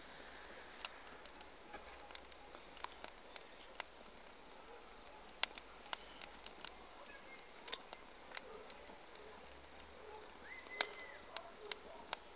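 Wood bonfire crackling faintly: irregular sharp pops and snaps over a low hiss, with a thin steady high tone underneath.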